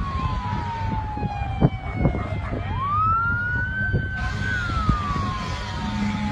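Emergency vehicle siren wailing: one slow tone that falls, climbs again about three seconds in, holds, then falls once more. Under it runs a steady low rumble with a couple of sharp knocks.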